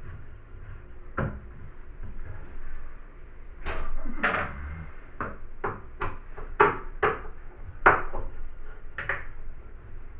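A run of about a dozen sharp, irregular knocks and clatters of hard objects being handled, beginning a few seconds in, with two louder strikes near the middle.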